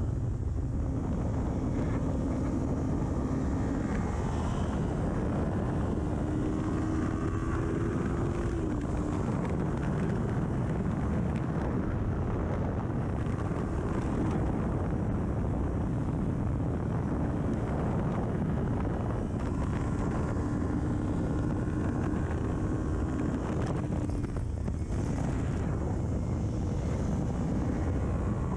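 Kawasaki Ninja 400 parallel-twin engine through an aftermarket full exhaust, revving hard at track pace. The pitch climbs and drops with shifts and braking, under heavy wind rush on the camera's microphone.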